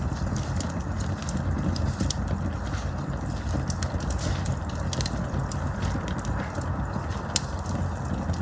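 Wood campfire burning with a steady low rush and frequent sharp crackles and pops of the burning wood, one louder pop about seven seconds in.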